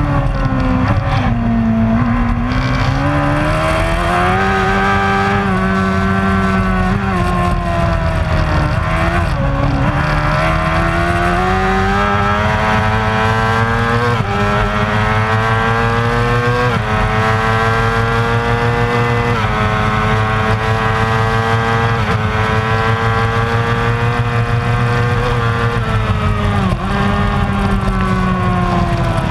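Superbike racing motorcycle engine at high revs, its pitch climbing and dropping sharply at three upshifts in the middle, then falling away with short dips as it slows near the end.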